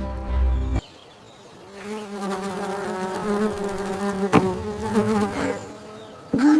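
Music cuts off abruptly, and after a short pause a steady, wavering buzz like a flying insect runs for about four seconds.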